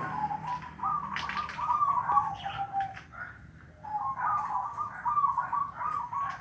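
Zebra dove (perkutut) cooing: two rapid, trilled coo phrases near one pitch, the first stepping down at its end, with a short pause about three seconds in.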